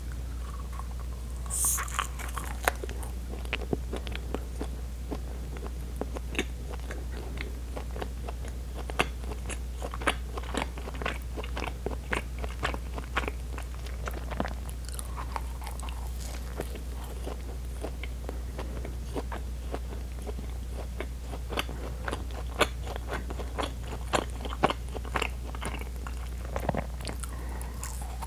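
Close-miked biting and chewing of pão de queijo, Brazilian cheese bread balls: a bite about two seconds in, then many short mouth clicks and chewing sounds, over a steady low hum.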